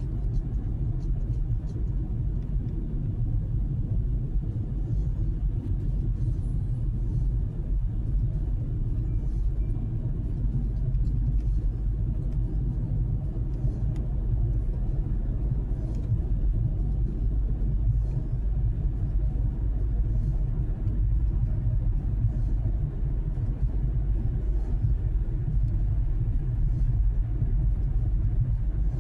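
Car driving at a steady pace: a continuous low rumble of engine and tyres on the road.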